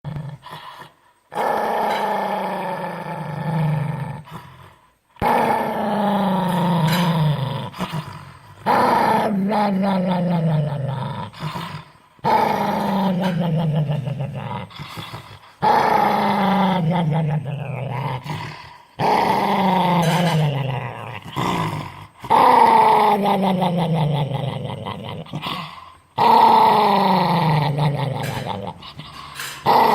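A dog making long, drawn-out growling calls, each falling in pitch, repeated about every three and a half seconds with short pauses between; the dog is angry.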